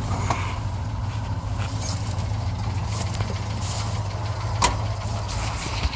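1977 Jeep Cherokee Super Chief engine idling steadily soon after a cold start, with scattered light clicks and knocks from handling, one sharper knock about two-thirds of the way through.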